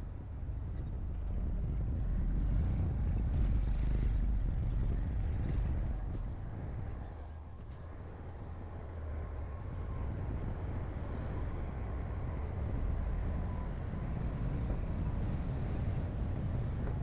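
Heavy diesel construction machinery running with a deep, continuous rumble. It swells in the first few seconds, eases about seven seconds in, then builds again.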